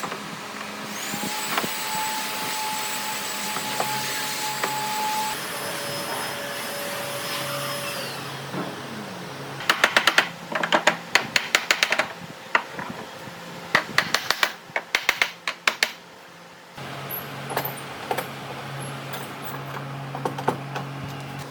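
A power tool runs with a steady whine, changes pitch and winds down after about eight seconds. It is followed by clusters of loud, rapid, sharp knocks and clicks, then a few fainter knocks near the end.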